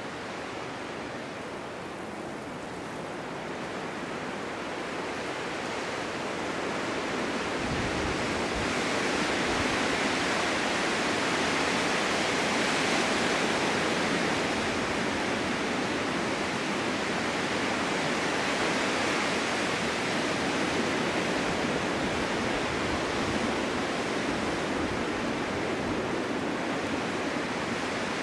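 Strong winter wind blowing through a forest, a steady rushing hiss with no distinct events, building in a gust over the first dozen seconds and then easing slightly.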